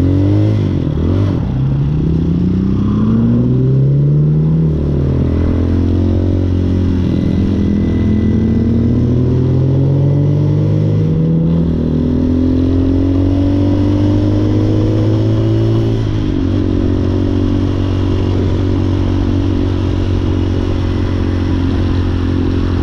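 Hawk 250cc dirt bike's single-cylinder engine pulling up through the gears: its pitch climbs three times, dropping back at each shift. It then holds a steady cruising note for the last several seconds.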